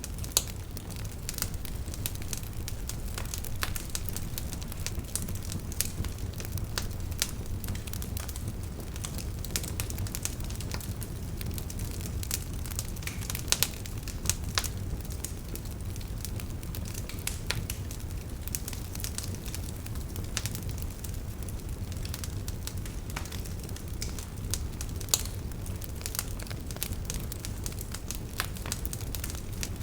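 Campfire burning: wood crackling and popping at irregular moments over a low, steady rumble of the flames, with a few sharper, louder pops.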